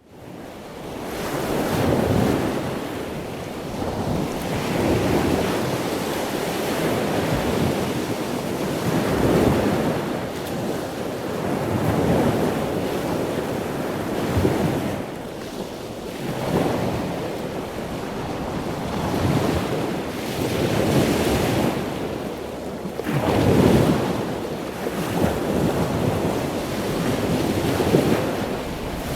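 Ocean waves surging and washing in, swelling every two to three seconds over a steady rush of wind. The sound fades in from a brief silence at the start.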